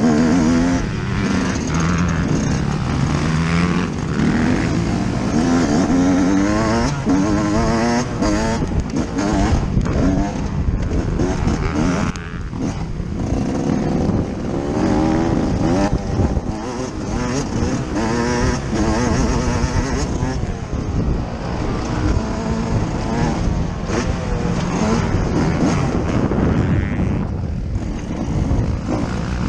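Yamaha YZ125's single-cylinder two-stroke engine, heard on board, revving hard and falling back again and again as the rider accelerates, shifts and backs off around a motocross track.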